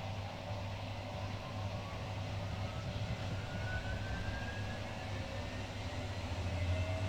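Two Schulthess washing machines, a Spirit topLine 8120 and an eMotion 7040i, spinning at once: a steady low hum with a motor whine gliding upward in pitch, and a second rising whine starting near the end, as the drums speed up.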